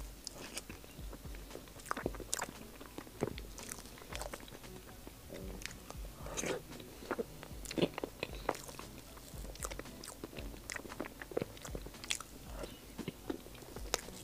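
Close-miked mouth sounds of a person eating soft mille crêpe cake: wet chewing and lip smacks, heard as many short, irregular clicks.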